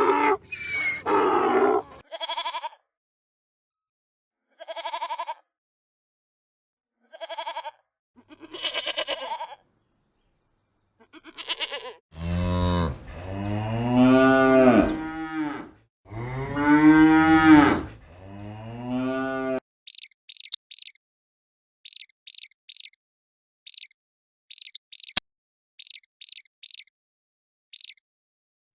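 Farm animal calls in sequence. First a few short bleats, then cattle mooing in two long, low calls about 12 to 19 seconds in. The last part is a quick series of very short, high-pitched chirps or squeaks.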